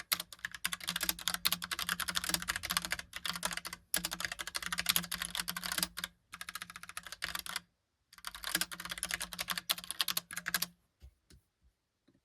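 Rapid typing on a Logitech POP Keys mechanical keyboard with round typewriter-style keycaps: dense runs of key clicks broken by short pauses. The typing stops about two-thirds of the way through, leaving a few scattered faint clicks.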